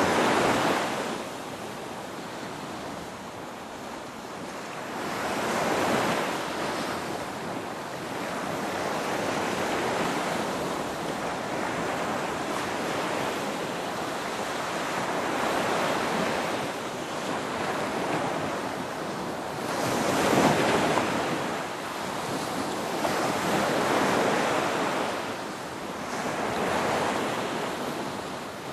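Ocean surf: waves breaking and washing up, with a rushing swell every four to six seconds and a steady hiss of water between.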